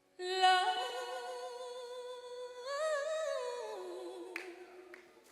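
A woman singing unaccompanied, holding one long note with a light vibrato; about halfway it lifts higher, then slides down to a lower note and fades out.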